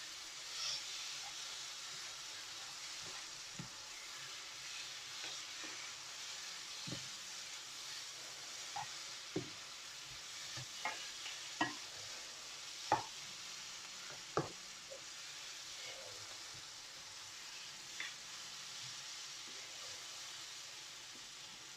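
Chicken curry sizzling gently in a frying pan as it is stirred, with a utensil knocking sharply against the pan a dozen or so times.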